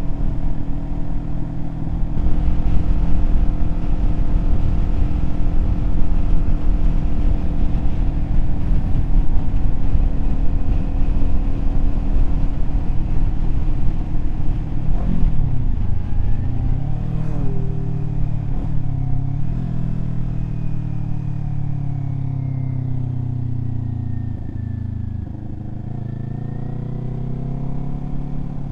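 Kawasaki Z400 parallel-twin engine under way, with a rumble of wind noise: it cruises steadily at first. About halfway through the revs drop and step up and down through gear changes, then fall slowly as the bike slows near the end.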